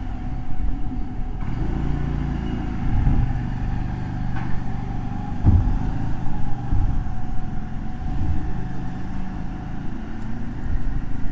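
Motorcycle engine running while riding, its pitch shifting up and down with the throttle, with a single knock about five and a half seconds in.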